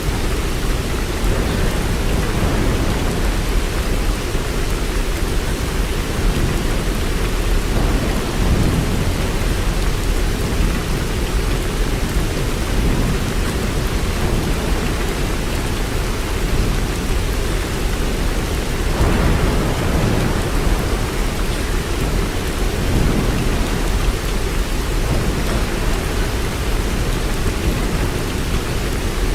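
Steady heavy rain, with a deep low rumble underneath that swells about a third of the way in and again a little past halfway.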